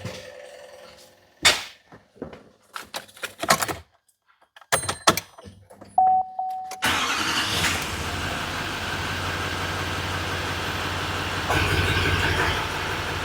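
A run of clicks and knocks, a brief steady chime-like tone, then the truck's 6.6 L Duramax V8 diesel cranks and starts about seven seconds in and settles into a steady idle.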